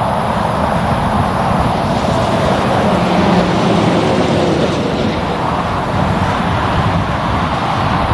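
Steady highway traffic noise: the tyre and engine noise of passing vehicles, with a low engine drone briefly coming up about three seconds in.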